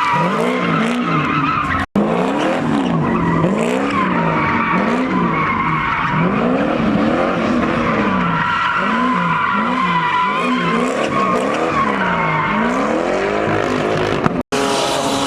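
A car doing donuts: the engine revs up and down in steady swells roughly once a second while the tires squeal continuously.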